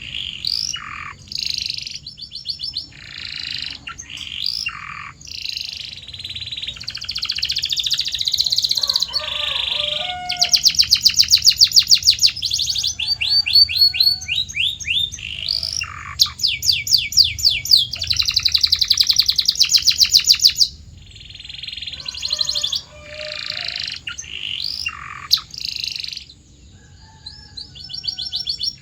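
Domestic canary singing a varied song of short chirped phrases, with two long, very fast trills of rapidly repeated high notes in the middle, the loudest part.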